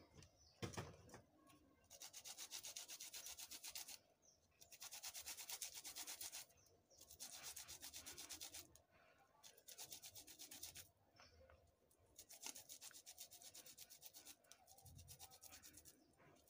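A garlic clove being grated: about six short bursts of fast, quiet rasping strokes with brief pauses between.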